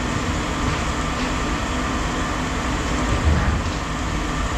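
Steady low rumble of heavy machinery running at a scrap yard, with a faint even hum over it.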